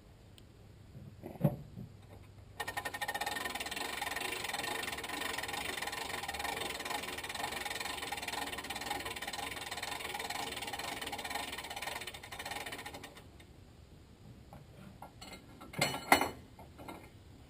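A steady mechanical whirring that starts suddenly about two and a half seconds in and stops about ten seconds later, with a single knock before it and a few loud clatters near the end.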